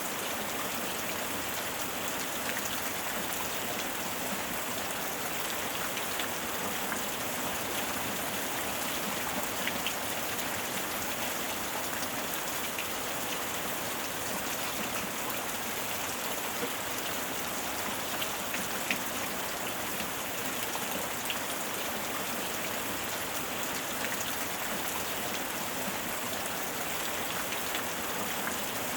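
Steady heavy rain falling, with scattered sharper drop ticks in the constant hiss.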